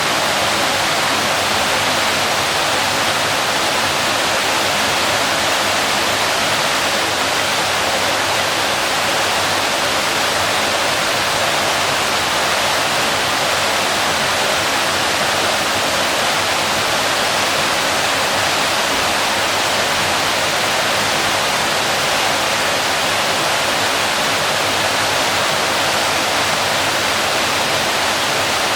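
Waterfall: water falling and splashing, a steady rushing that doesn't change.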